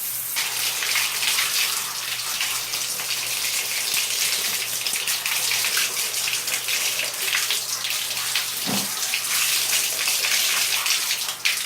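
Water spraying steadily from a handheld pet shower head: a continuous hiss of spray.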